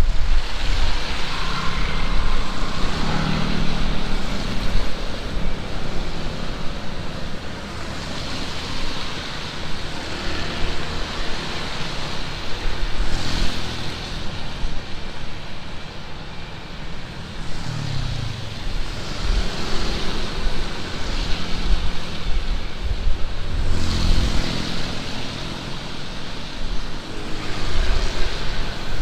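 Heavy rain pouring steadily, with gusts of wind that rise and fall.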